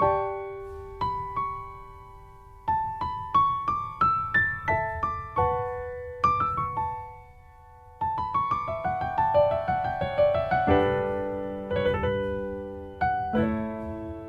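Background music: a slow, gentle piano melody of single struck notes that fade away, with short pauses, moving into fuller chords with lower notes about ten seconds in.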